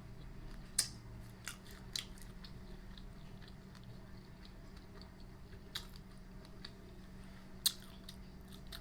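Close-up chewing and biting into a fried spicy chicken wing, with about five sharp crunches spread through the chewing. A dishwasher runs underneath with a steady low hum.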